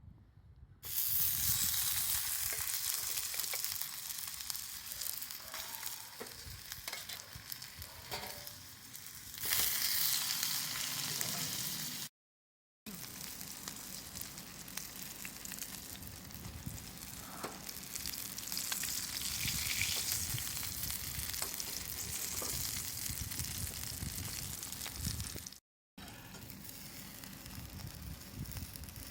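Food sizzling and frying in a hot pan, a steady dense hiss that breaks off completely for a moment twice.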